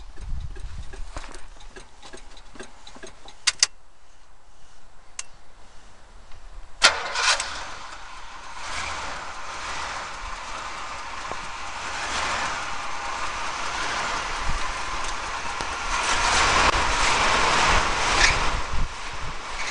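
1976 Oldsmobile Cutlass engine being started and revved with the gas pedal. Several seconds of light clicks come first, then a sharp click about seven seconds in as the engine catches. It runs on and grows louder near the end as the pedal is pumped.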